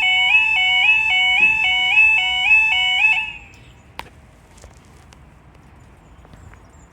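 Level crossing warning alarm sounding its two-tone yodel, the pitch stepping up and down about twice a second; it stops about three seconds in. A single sharp click follows about a second later.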